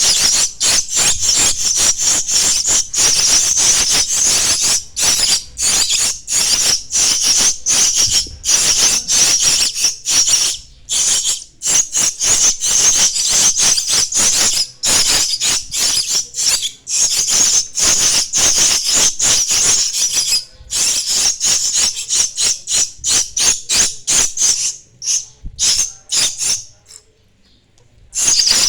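Starling chicks calling with harsh, raspy, hissing cries repeated several times a second, pausing briefly about ten and twenty seconds in and falling quiet for a couple of seconds near the end.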